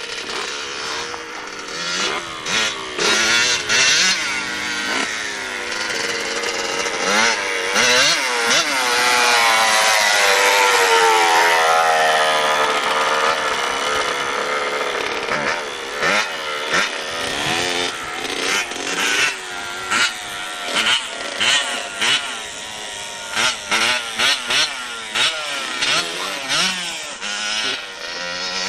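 Motorcycle engine being revved. The pitch climbs to a long, held high rev around the middle and then falls away. After that come quick repeated throttle blips, several a second apart.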